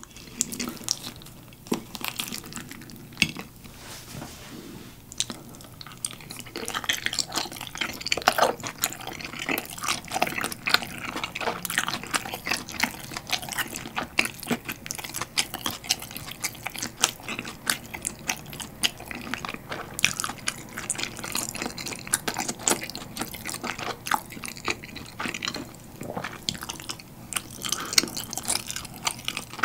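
Close-miked wet chewing of a meat dumpling: soft squishing with many small sticky mouth clicks. It is sparser for the first few seconds, then goes on thickly.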